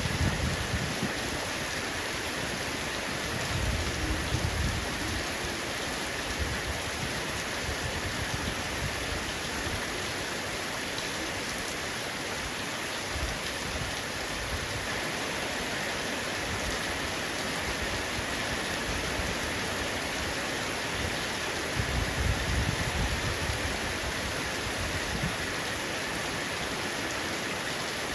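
Heavy rain falling steadily on a roof, a constant hiss, with low rumbles of thunder three times: at the start, about four seconds in, and again about twenty-two seconds in.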